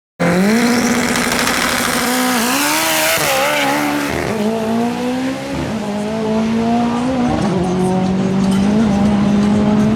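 Drag race car's engine running at high revs, its pitch wavering and then stepping down to a steady hold about seven seconds in, with tyre squeal over the first few seconds.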